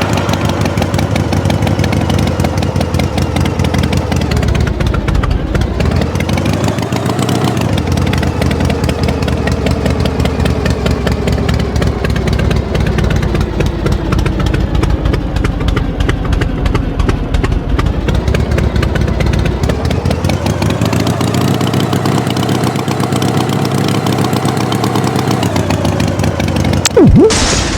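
Engine running steadily, its pitch rising and falling slowly twice as it revs up and back down. A brief, loud, sharp sound comes near the end.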